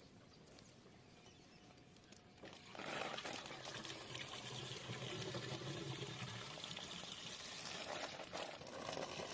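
Water pouring in a steady rush, starting suddenly about three seconds in after near quiet.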